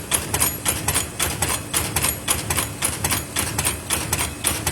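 Paper lid forming machine running, its mechanism clattering in an even rapid rhythm of about four clicks a second over a steady low hum.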